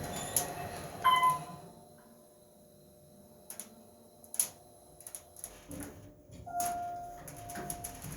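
Lift: a short electronic beep about a second in, a few sharp clicks and knocks in the quiet middle, then a longer, lower beep near the end.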